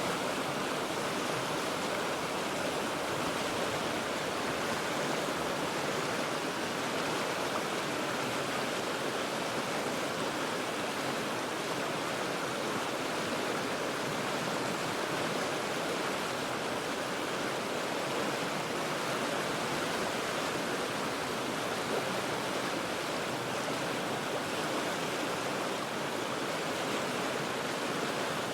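A river rushing steadily over rocks, an even, unbroken wash of water noise.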